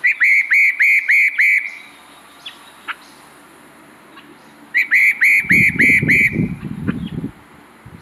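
Spot-breasted parrotbill song: a run of about five loud whistled notes, roughly three a second, each note sliding down in pitch. A second, similar run comes about three seconds later. A low rumble sits under and just after the second run.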